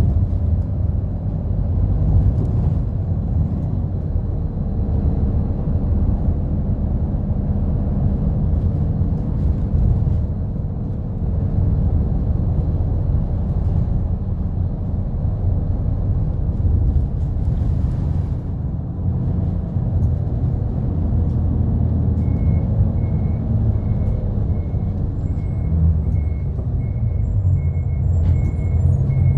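Steady low rumble of a route bus's engine and road noise, heard from inside the cabin while riding. From about three-quarters of the way in, a short high beep repeats a little more than once a second.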